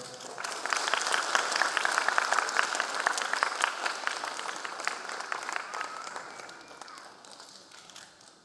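Audience applause breaking out just after the music stops: dense clapping that is loudest in the first few seconds, then thins and fades away.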